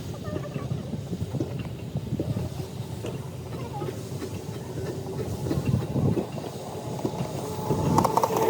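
Railway train moving over the track, its wheels clattering irregularly over the rail joints. A steady tone comes in near the end.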